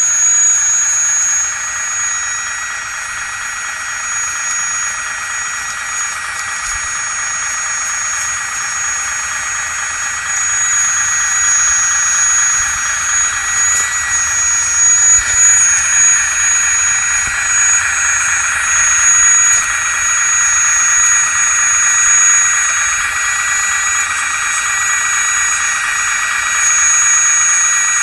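A 1/16-scale full-metal RC wheeled excavator running: a steady, high-pitched electric whine from its motors that grows louder and eases off a little as the machine works.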